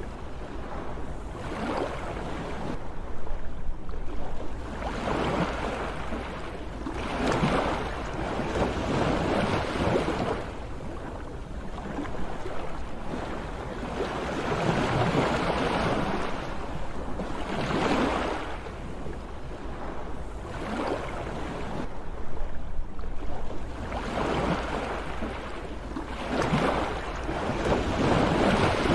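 Sea waves breaking and washing in, swelling and fading every few seconds, over a steady low rumble.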